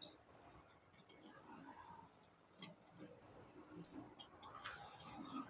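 Blue-crowned hanging parrot (serindit) giving short, thin, high-pitched chirps, four in all, the loudest about four seconds in.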